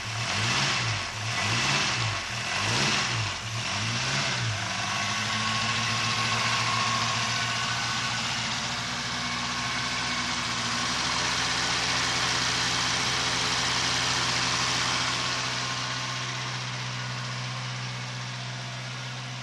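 Lancia Appia's narrow-angle V4 engine revved in about five quick throttle blips, each rising and falling, over the first four or five seconds, then settling to a steady idle.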